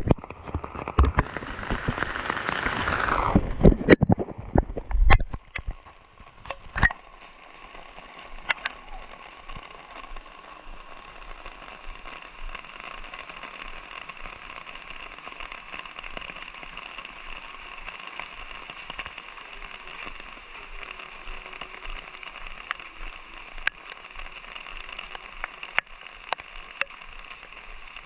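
Light rain falling, with scattered drops ticking sharply. For the first few seconds a loud clatter of knocks and a rushing noise covers it, then stops suddenly and leaves a steady hiss of rain.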